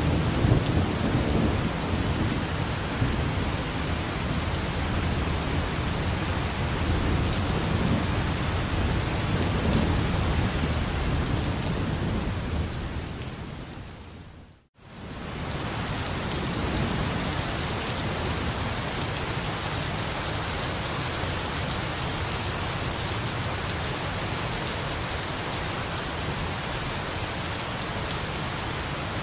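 Heavy rain pouring steadily, with a deep rolling thunder rumble underneath in the first half. About halfway through, the sound fades out almost to silence for a moment, then comes back as steady heavy rain with less rumble.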